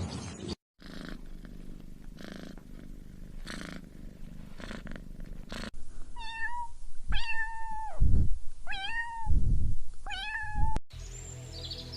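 A domestic cat purring, a soft rasping pulse about once a second, followed by the cat meowing loudly four times.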